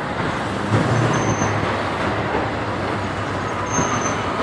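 A vehicle engine running amid steady street traffic noise, its low hum strongest about a second in.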